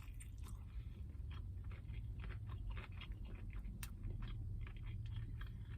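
Close-miked chewing of a crispy breaded fried chicken sandwich: a steady run of small wet crunches and crackles, with a constant low hum beneath.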